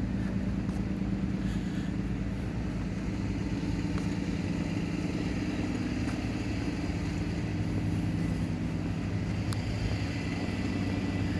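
Metra train's diesel locomotive engine running steadily, a low hum made of a few unchanging pitched tones.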